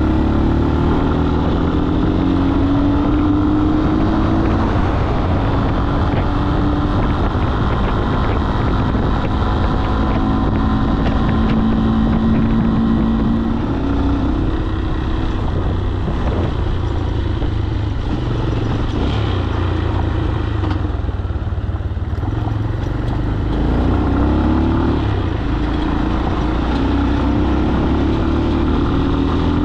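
Single-cylinder 200 cc carbureted motorcycle engine running while riding. Its pitch climbs and drops back several times as it accelerates and changes gear, with steady road and wind noise underneath.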